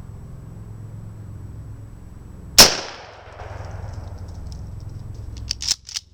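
A single shotgun blast from a Mossberg 500 12-gauge firing a birdshot round, about two and a half seconds in, with a short echoing tail. A few sharp clicks follow near the end.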